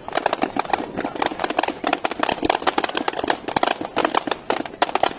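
Fireworks going off in a rapid, irregular barrage of cracks and pops, several a second with no break.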